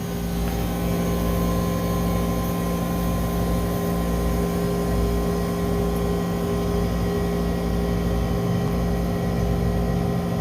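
Steady machine hum from a motor or engine running at a constant speed, with a low droning tone and a few higher steady tones.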